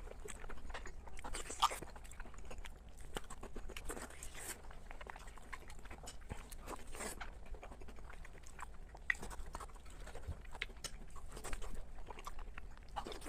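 A person eating close to the microphone, irregular wet clicks and soft crunches of biting and chewing, with lip smacks: spicy braised pork large intestine being chewed.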